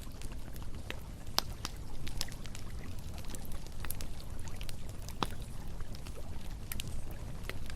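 Wood campfire crackling, with scattered sharp pops and snaps, over the steady low rush of a flowing river.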